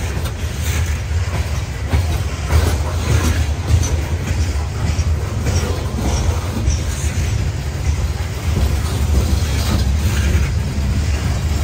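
Empty CSX open-top coal hopper cars rolling past on the rails: a steady low rumble with scattered wheel clicks and clanks, and a few faint high squeaks from the wheels.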